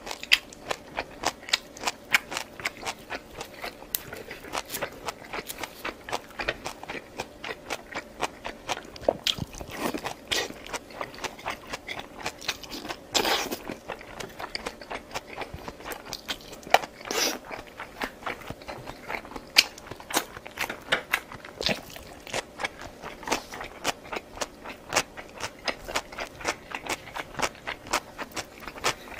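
Close-miked eating: steady chewing with rapid sharp mouth clicks, several a second, and a few louder crunchy bites.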